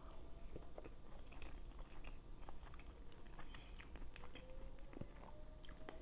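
Faint chewing and mouth sounds of someone eating, close to the microphone, with small irregular clicks.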